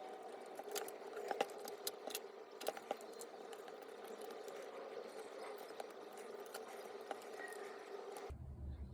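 Scattered clicks and taps of parts and tools being handled while a Makita JR3070CT reciprocating saw is taken apart, over a steady background hum. Near the end the hum abruptly changes to a deeper one.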